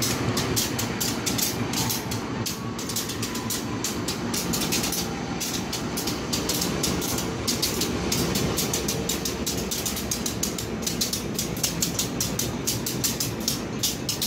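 Riding inside a moving passenger train coach: a steady rumble of the wheels on the rails, with a fast, continuous clatter and rattle of the carriage.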